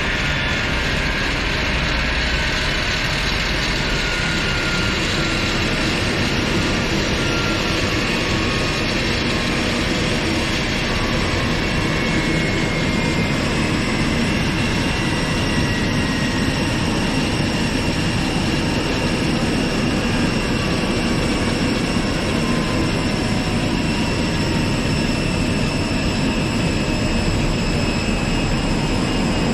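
Aircraft jet turbine noise: a steady loud rumble under several high whining tones, some of them gliding slowly down in pitch through the first half.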